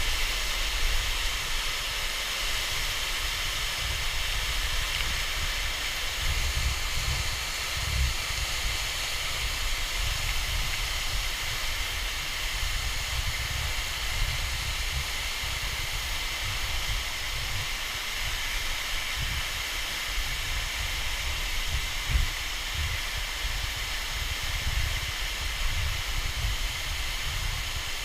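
Steady rushing of a waterfall: an even hiss of falling water with an uneven low rumble beneath it.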